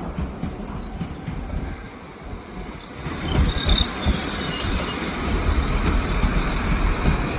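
Train moving along the platform with a steady low rumble. About three seconds in, a high-pitched metal squeal wavers for a couple of seconds.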